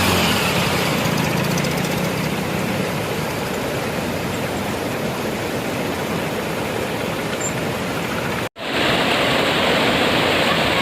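Steady rushing of a waterfall's falling water. A tractor engine's low hum fades away in the first couple of seconds. About eight and a half seconds in, the sound drops out for an instant and comes back as a brighter rush of water.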